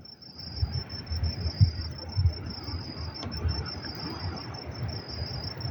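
Crickets chirping at night in a steady, fast-pulsing high trill, over irregular low rumbling and bumps.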